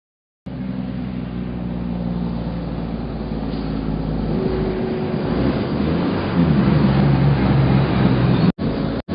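Dump truck engine running steadily. It comes in about half a second in, its note shifts about four seconds in, and it cuts out briefly a couple of times near the end.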